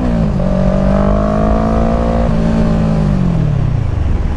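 Kawasaki Ninja 650's parallel-twin engine under way: its pitch drops at a gear change right at the start, climbs steadily for about two seconds as it pulls, then falls away as the throttle is closed, over a steady low wind rumble.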